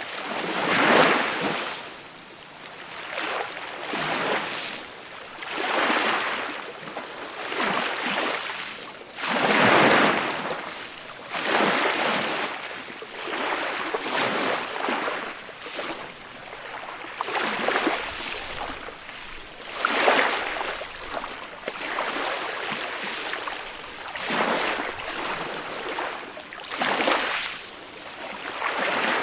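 Small, gentle sea waves breaking and washing up on a beach, each one swelling and fading every two to three seconds.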